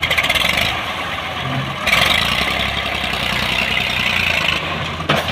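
Tractor engine running steadily at a low speed, with a hiss in the upper range that swells about two seconds in and drops back near the end.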